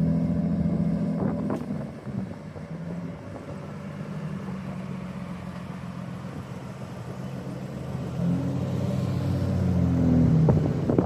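Car engine running steadily at low revs. It is louder at first, eases off after about two seconds, then builds again near the end.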